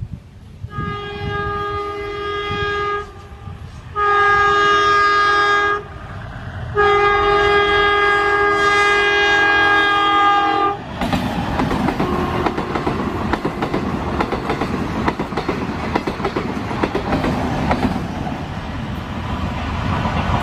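Indian Railways DEMU diesel local train sounding its multi-tone horn in three blasts, the last and longest about four seconds, then passing close by with its wheels clicking rapidly over the rail joints.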